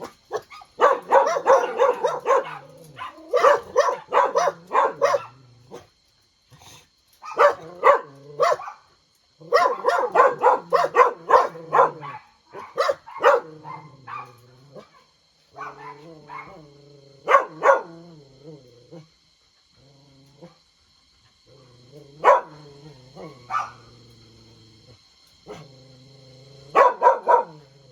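Several dogs barking in repeated bouts, with short pauses between the bouts.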